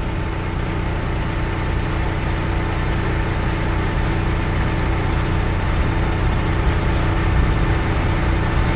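Semi-truck diesel engine idling steadily, a continuous low rumble with a faint steady hum above it.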